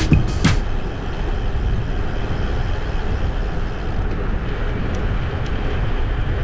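Steady rolling and wind noise from a bicycle ride, picked up by a chest-mounted GoPro: tyre rumble on the road, with no clear separate events.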